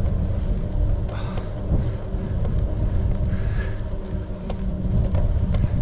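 Wind buffeting the microphone of a rider on the move, a steady low rumble with a few faint higher sounds over it.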